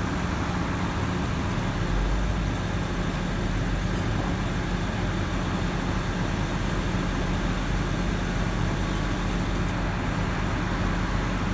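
Diesel engines of heavy equipment (excavators and loaders) running steadily, with a low even drone that does not change.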